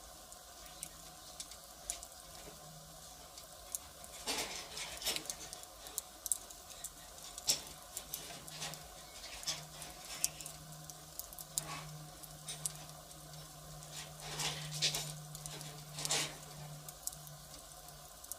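Firewood fire crackling: irregular sharp pops and snaps over a soft hiss, with a few louder clusters of pops scattered through.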